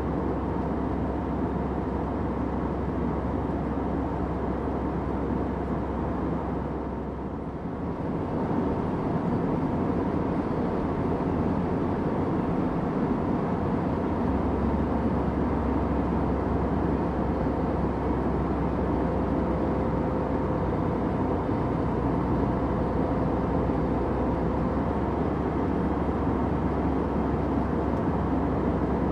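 Steady airplane cabin noise in flight: a low, even rushing drone that dips briefly about a quarter of the way through.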